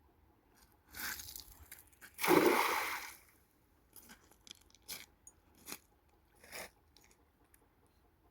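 A few crunching, rustling noises: a short one about a second in, a louder one lasting nearly a second, then four short sharp cracks spaced about a second apart.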